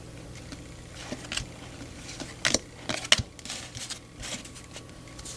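Baseball trading cards being flipped through by hand: a scatter of light card clicks and slides, a few sharper snaps about two and a half and three seconds in.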